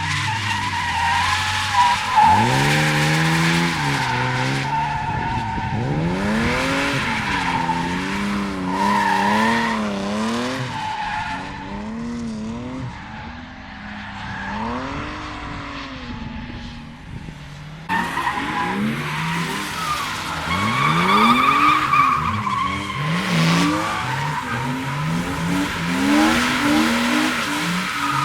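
Drift cars sliding past with their engines revving hard, the pitch rising and falling over and over, while the tyres squeal and skid. About eighteen seconds in, the sound cuts abruptly to another car's pass.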